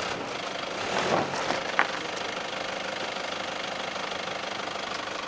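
A 4x4's engine running steadily at low revs while the vehicle crawls slowly through an off-road obstacle. A few short knocks and clatters come between one and two seconds in.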